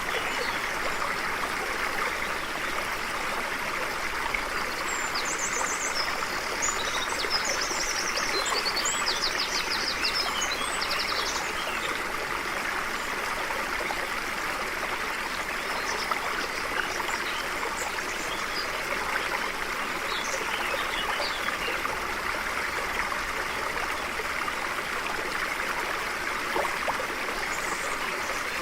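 Stream flowing steadily over rocks, a continuous rushing babble, with birds chirping above it; a burst of quick trilled bird calls comes between about five and twelve seconds in, with scattered single chirps later.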